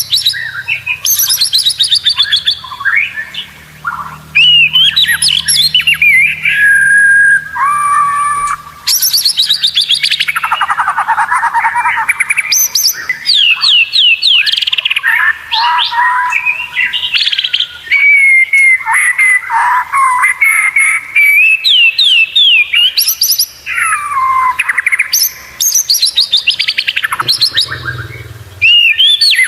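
White-rumped shama (murai batu) singing continuously in rapid, varied phrases of fast trills and sweeping whistled notes.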